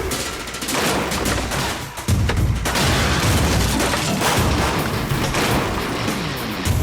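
A rapid, dense series of bangs and crashes over dramatic background music, with a heavy low rumble from about two seconds in.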